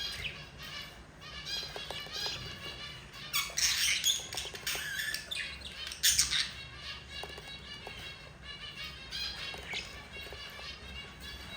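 Budgerigar chicks begging as their mother feeds them: a continuous run of quick, repeated chirps and squawks, loudest in a dense burst about three and a half to five seconds in and again briefly near six seconds.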